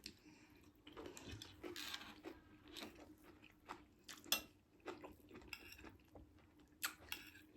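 Close-miked chewing and biting of a person eating, with quiet, irregular wet clicks and crunches.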